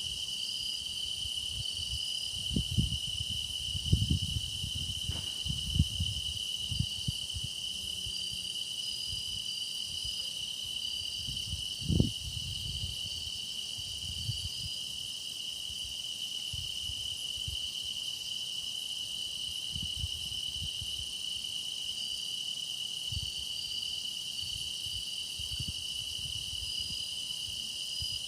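Chorus of crickets and other grass insects trilling steadily, one high continuous trill with a higher pulsing call over it. Low thumps and rumbles come and go in the first several seconds, with one sharper thump about twelve seconds in.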